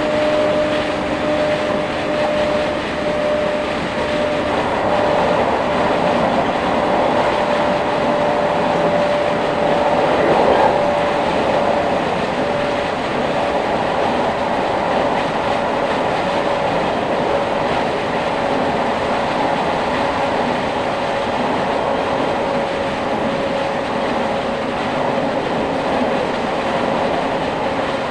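In-cabin running sound of a JR East 701 series 5500-subseries electric train with GTO inverter drive, moving between stations. Wheels rumble steadily on the rails under a steady whine that sinks slightly in pitch. A lower tone fades out about four seconds in, and the noise swells briefly about ten seconds in.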